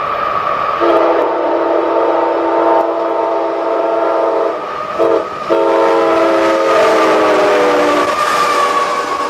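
A CSX freight locomotive's multi-chime air horn sounds a long blast, a short toot and another long blast, the notes of the last blast dropping in pitch as the locomotive passes. The train's running rumble continues underneath.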